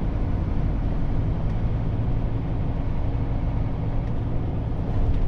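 Scania truck's diesel engine running steadily on the move, with road and tyre noise, as heard inside the cab.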